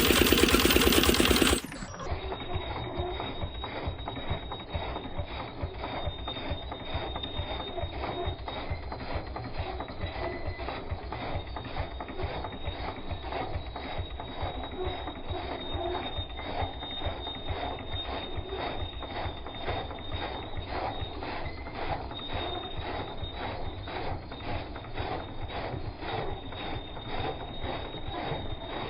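Engine running steadily with a rapid, even mechanical beat and a thin steady whine above it; the sound is louder and harsher for the first second and a half.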